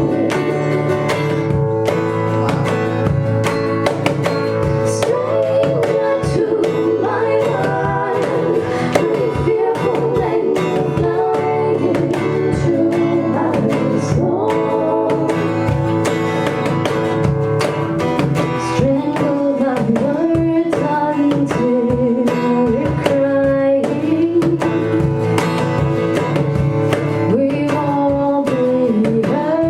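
Live song performance: a woman singing a slow melody over guitar accompaniment.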